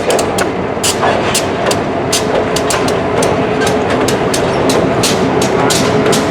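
Freight cars rolling through a rail yard, their steel wheels clicking irregularly over rail joints and switches against a steady rumble.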